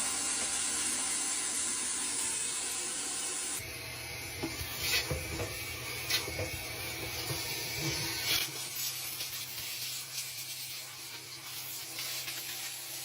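Vacuum cleaner running with a dryer vent cleaning hose attachment, a steady rushing hiss as it sucks out lint. Scrapes and knocks of the hose against the dryer come between about 4 and 8 s, and the sound shifts abruptly about 3.5 s and 8.5 s in.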